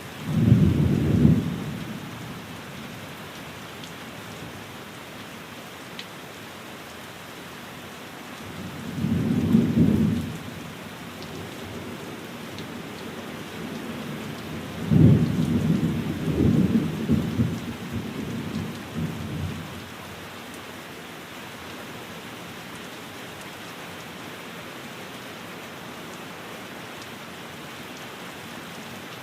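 Steady rain pattering on a window, with three rolls of thunder: one cracks in right at the start, a second swells and fades about nine seconds in, and a longer one breaks sharply around fifteen seconds and rumbles on for several seconds.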